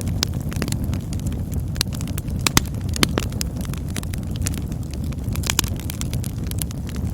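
Campfire burning: a steady low rumble of flame with irregular sharp crackles and pops of the burning wood, two louder snaps about two and a half and three seconds in.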